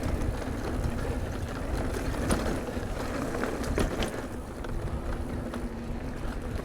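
Haibike e-mountain bike rolling fast over a rough, rutted dirt trail: steady tyre and wind rumble on the microphone, with a few sharp rattles and clicks from the bike over the bumps.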